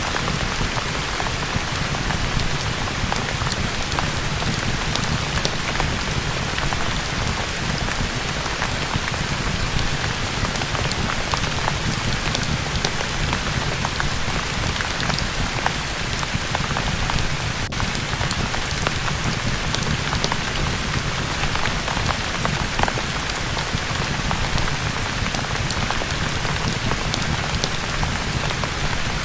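Steady rain falling on a surface, an even hiss and patter of drops. Small crackles from a fireplace are scattered through it.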